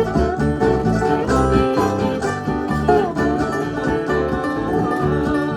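Bluegrass band playing an instrumental break, with banjo prominent over guitar and a stepping bass line.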